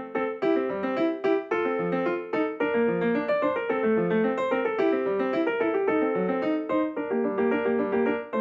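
Solo piano music: a steady run of struck notes playing a gentle melody over a moving lower line.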